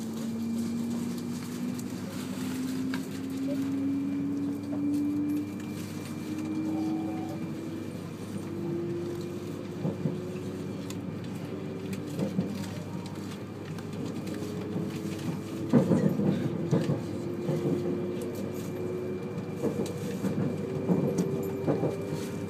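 Cabin running noise of a 200 series Shinkansen train, with a motor whine that climbs steadily in pitch as the train gathers speed. A few brief knocks come through, the loudest about 16 seconds in.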